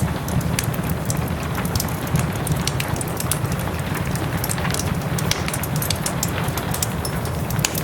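Wood fire crackling in a fireplace, with frequent sharp pops, over a steady rush of soft rain.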